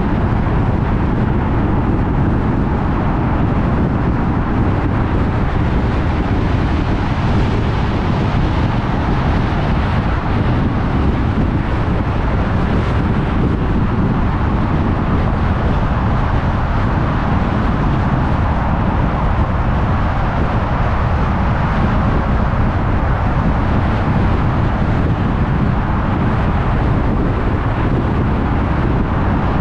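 A car driving along at steady speed: an even wash of tyre and road noise with wind, strongest in the low end, unchanging throughout.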